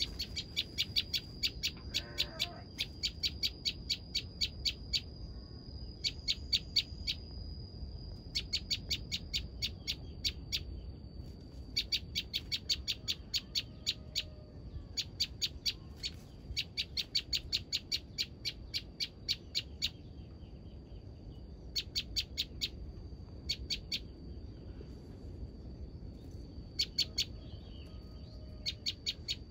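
Bar-winged prinia (ciblek) calling: runs of rapid, sharp, evenly repeated chirps, about four to five a second, in bursts of one to four seconds with short pauses between.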